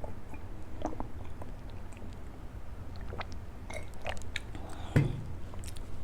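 Close-up chewing and mouth sounds of someone eating soft idli with sambhar and chutney: scattered small wet smacks and clicks, with one louder thump about five seconds in.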